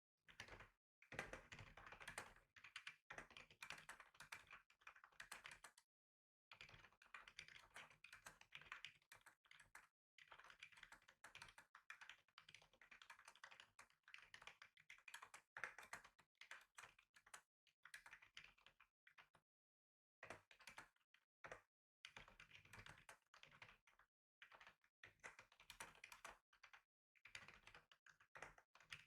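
Faint typing on a computer keyboard: runs of quick key clicks lasting a few seconds, broken by brief pauses.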